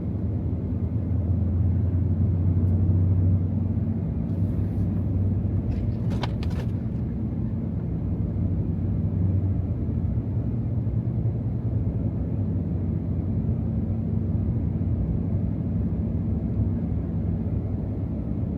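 2024 Ram TRX's supercharged 6.2-litre V8 running steadily at low pitch under road and tyre noise as the truck drives through snow.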